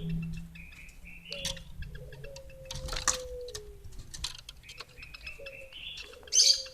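Bird calling: a female Horsfield's babbler (pelanduk semak) gives long, low whistles that fall slightly in pitch and repeat every second or so, mixed with short higher chirps and scattered clicks. A sharp, louder burst comes near the end.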